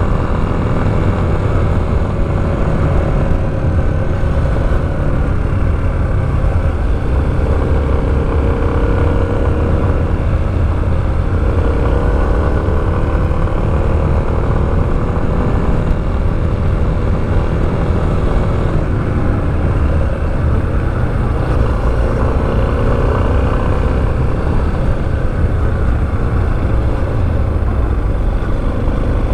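Motorcycle engine running while riding, its pitch slowly rising and falling with the throttle, over a constant low rumble.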